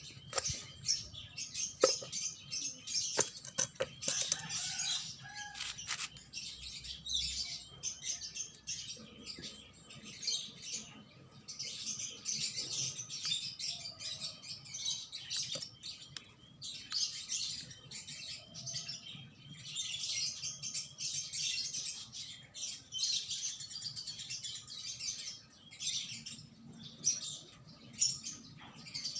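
Small birds chirping steadily, with a few sharp clicks and knocks in the first six seconds.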